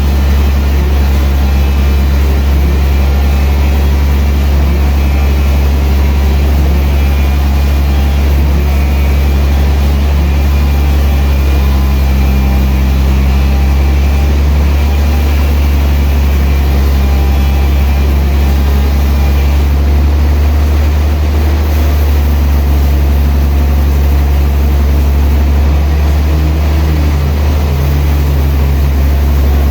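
Sawmill machinery running steadily at a constant load, with a loud, unbroken low drone from its heavy engine.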